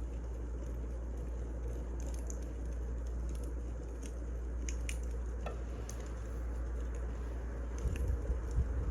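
Wood fire burning, with a steady low rumble and scattered sharp crackles and pops. A few soft low thumps come near the end.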